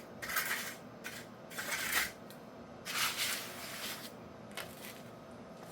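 A hand tool being drawn over a wet concrete patch to smooth it, making four short scraping strokes spaced roughly a second or more apart.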